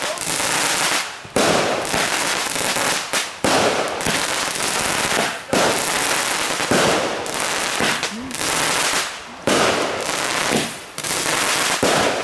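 Fireworks going off in a dense, continuous crackle and hiss, with a new loud burst of crackling starting about every two seconds.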